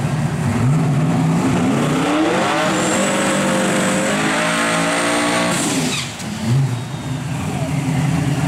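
A drag-racing car's engine accelerating hard: its pitch climbs for a couple of seconds, holds high, then drops off suddenly about six seconds in, followed by lower revving.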